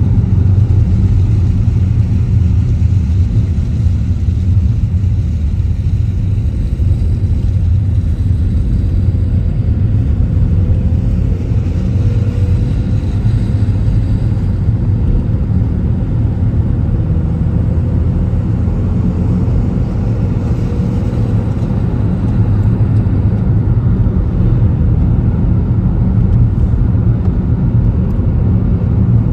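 Car driving, with a steady low rumble of engine and road noise. Faint rising tones partway through suggest the car picking up speed.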